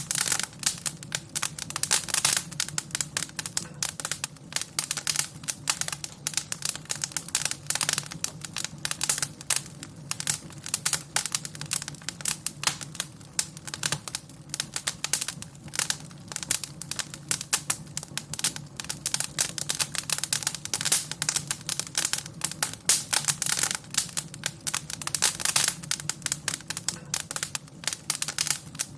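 Wood fire in a fireplace crackling, with dense, irregular snaps and pops over a low, steady rumble.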